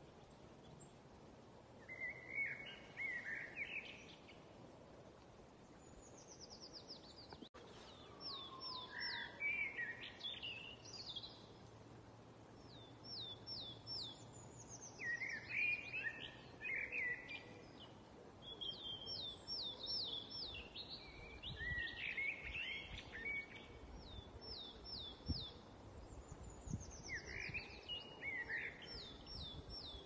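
Songbirds singing in short repeated phrases: quick runs of high, downward-sweeping chirps every couple of seconds, over a faint steady outdoor background.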